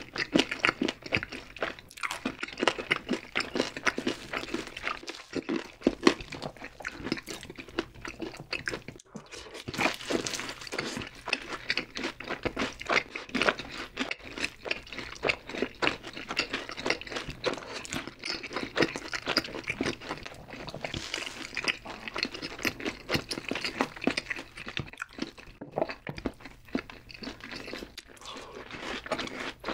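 Close-miked chewing and crunching of Korean fried chicken and cheese balls: a dense, uneven run of crisp crunches as two people eat, with a bite into a cheese ball near the end.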